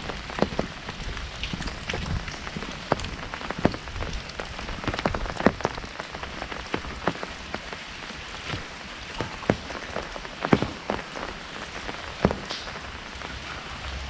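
Rain falling on an umbrella held overhead: a steady hiss of rainfall with frequent irregular sharp taps of larger drops striking the canopy.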